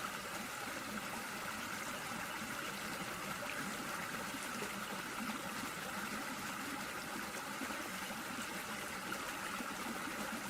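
Small waterfall on a woodland creek: a steady rush of falling and splashing water.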